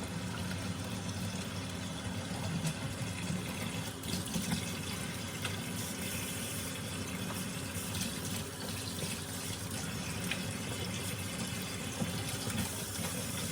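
Water running steadily from a kitchen tap into a sink while baby bottles are washed, with a few faint knocks of the bottles.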